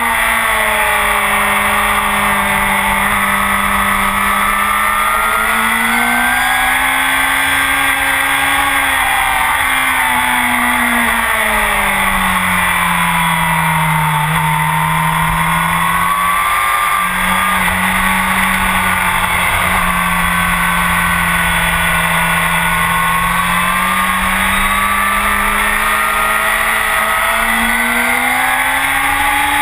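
Honda CBR1000RR's inline-four with a full Akrapovic exhaust, heard from the bike's tail close to the exhaust, running hard on track. The engine note sags and swells with the throttle through the corners, dipping lowest about halfway, breaking briefly just after, and climbing again near the end.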